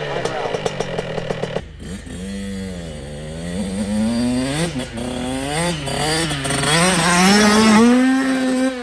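Dirt bike engine revving as it builds speed, its pitch repeatedly dipping and climbing. Near the end it climbs to a long, high, full-throttle pitch and then drops away as the throttle is cut.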